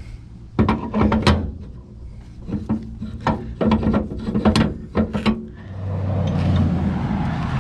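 Metal parts and tools clicking and clanking in irregular clusters, with a steadier low hum in the last two seconds or so.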